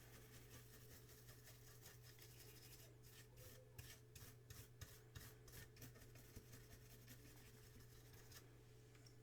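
Faint rapid rubbing strokes, about three a second, as a part of the tape deck is wiped clean, starting about three seconds in, over a low steady hum.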